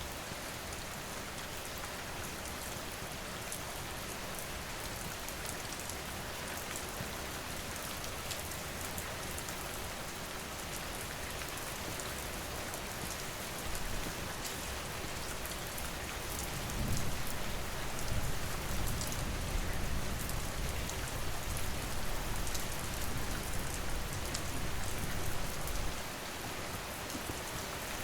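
Steady rain falling. About halfway through, a low rumble comes in, swells and fades out near the end.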